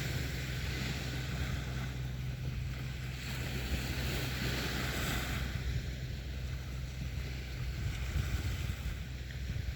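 Sea waves washing onto a beach, the hiss of the surf swelling about five seconds in, with wind rumbling on the microphone.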